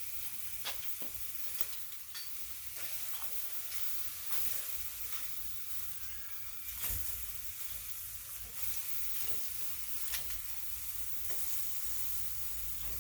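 Quail sizzling over a charcoal fire: a steady hiss with scattered short crackles and pops, over a low steady hum.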